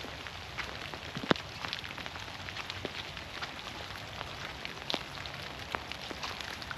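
Steady rain falling through forest trees, a constant hiss scattered with irregular drops pattering on leaves. A few sharper, louder drips or ticks stand out, the loudest about a second in.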